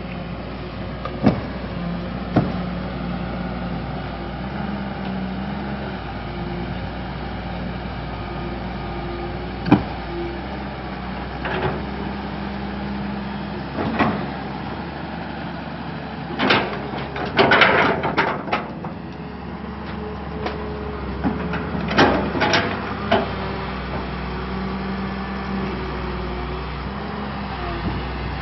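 Kobelco excavator's diesel engine running steadily, with scattered sharp knocks and a burst of clattering a little past the middle.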